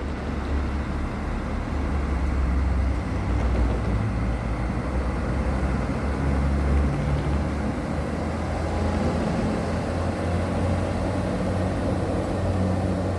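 Diesel passenger train passing over a level crossing: a steady low rumble of engine and wheels.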